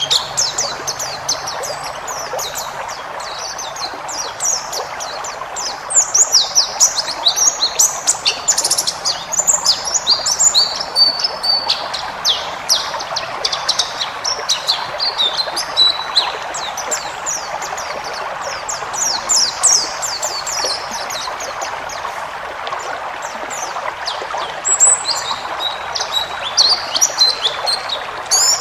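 White-eye (pleci) singing a long, varied song of rapid high twittering chirps and trills in bursts, over a steady rushing background hiss.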